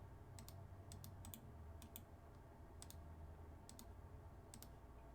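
Near silence with faint, irregular clicks from a computer keyboard and mouse, about a dozen over five seconds.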